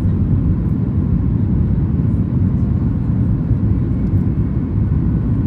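Steady low roar inside the cabin of a Boeing 737 MAX 8 climbing after takeoff: its CFM LEAP-1B turbofan engines and the airflow over the fuselage, with no breaks or changes.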